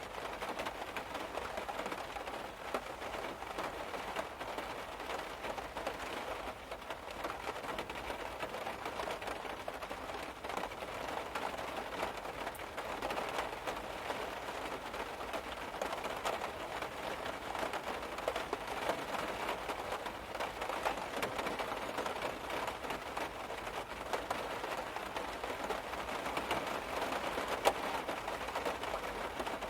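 Rain pattering steadily on a car's roof, heard from inside the car: a dense, even spatter of small drop ticks.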